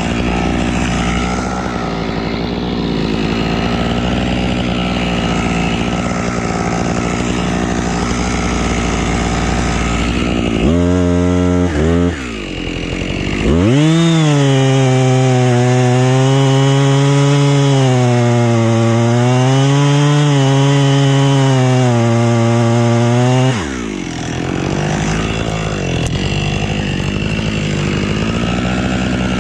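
Husqvarna two-stroke chainsaw running: a steady lower running sound, a short blip of the throttle about eleven seconds in, then about ten seconds at high revs with the pitch dipping and rising as it saws through wood, before dropping back to the lower running sound.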